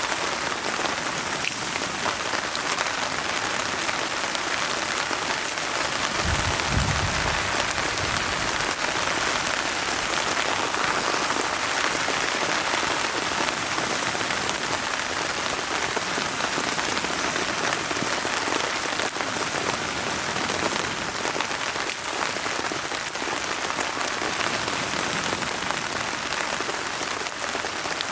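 Steady rain falling, with scattered small crackles from a wood campfire in a fire stand. A short low thud comes about six and a half seconds in.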